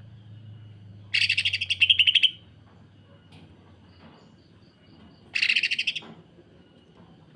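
Cucak ijo (green leafbird) giving two bursts of harsh, rapid-fire rattling calls, the 'sewing machine' rough call. The first starts about a second in and lasts about a second; the second, shorter one comes about five seconds in.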